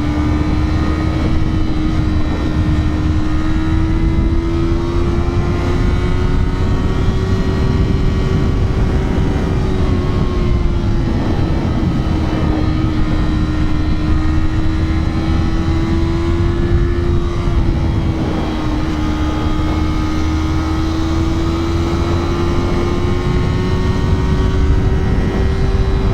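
A 2025 Yamaha R3's 321 cc parallel-twin engine running hard at high, fairly steady revs while riding, its pitch drifting slightly up and down, with heavy wind rush on the microphone.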